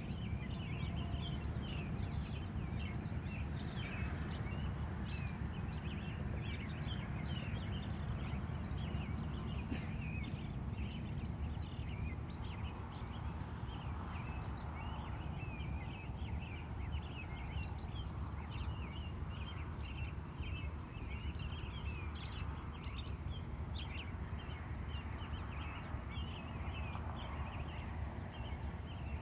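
Many wild birds giving short chirps and calls, scattered densely, over a steady pulsing cricket trill, with a constant low rumble underneath.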